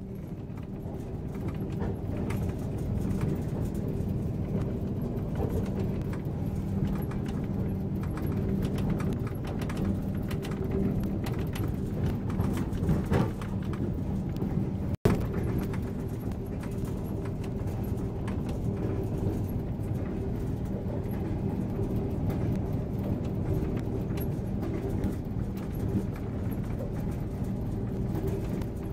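Passenger train running: steady rolling noise with a low hum and constant light rattling. The sound fades in at the start and cuts out abruptly for an instant about halfway through.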